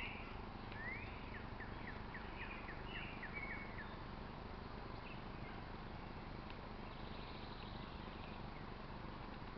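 A songbird sings a short phrase of quick high chirps, a rising note followed by a run of falling ones, in the first few seconds. A steady low rumble of background noise runs underneath.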